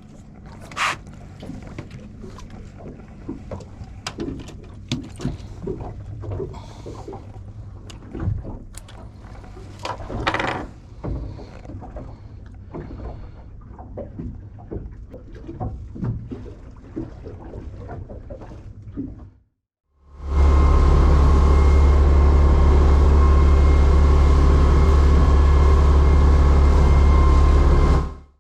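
A fishing boat's engine hum with scattered small knocks and clicks of gear handled on deck. After a sudden break, the boat runs under way: the engine's loud, steady low rumble mixed with rushing wind and water noise.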